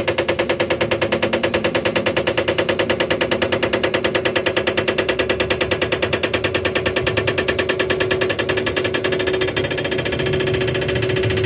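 Engine cylinder boring machine running, a rapid, even pulsing over a steady hum; the pulsing smooths out about eight seconds in.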